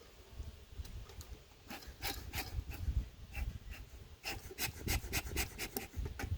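Scraping and clicking strokes on wood, sparse at first, then a quick run of about seven strokes a second for a second and a half before stopping. A low rumble runs underneath.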